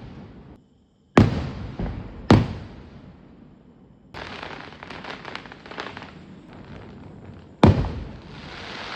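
Festival fireworks: three loud bangs, about a second in, two seconds in and near the end, each trailing off slowly, with a stretch of rapid crackling pops between them.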